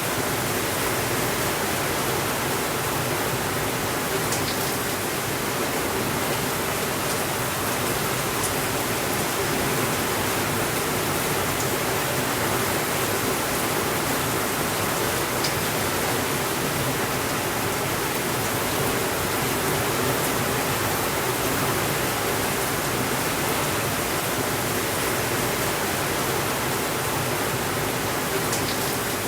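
Steady rainfall, an even hiss with no change in level, with a few faint ticks.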